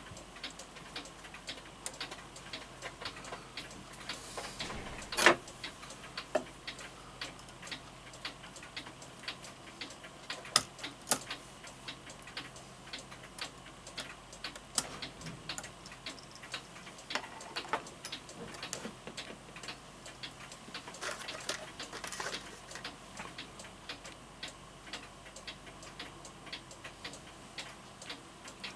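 Florenz Kroeber mantel clock movement ticking steadily, with a few louder knocks and brief rustles of handling in between.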